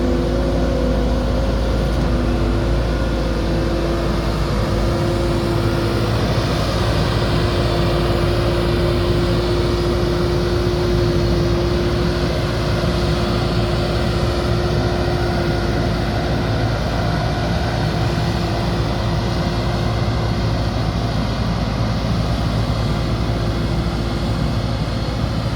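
JCB backhoe loader's diesel engine running steadily, with a held tone that fades about two-thirds of the way through.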